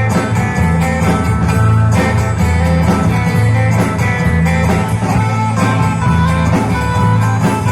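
A live band playing an instrumental passage with guitar over a strong bass line and a steady beat.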